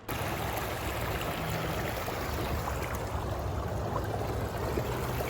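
Steady rush of flowing river water, starting abruptly.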